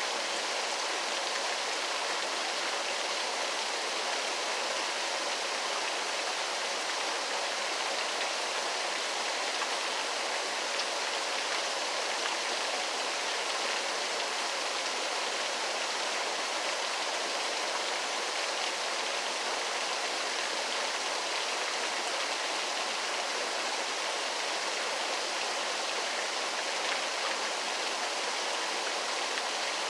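Waterfall: water falling and splashing in a steady, even rush with no breaks or single events.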